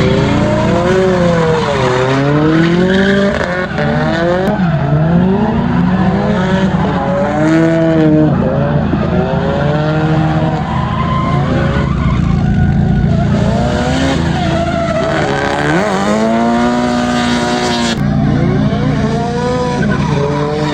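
Drift cars' engines revving hard up and down as they slide, several overlapping at times, over the hiss and squeal of skidding tyres.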